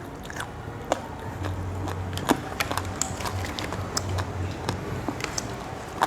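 Eating at a table: chewing with scattered sharp clicks and taps, and a faint low hum from about one and a half to four and a half seconds in.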